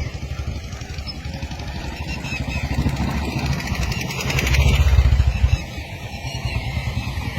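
A small engine running nearby, growing louder to a peak about four to five seconds in, then dropping off suddenly, like a motor vehicle passing.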